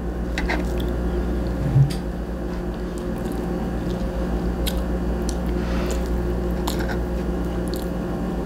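A person chewing a pancake, with a few light clicks of a fork on a plate, over a steady low hum.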